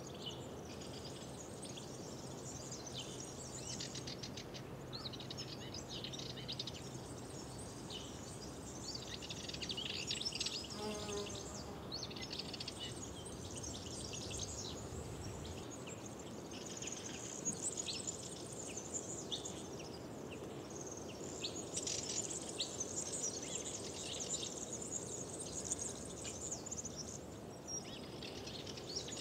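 Chorus of many small songbirds singing and calling over each other, with dense overlapping chirps and trills, over a faint steady background hiss.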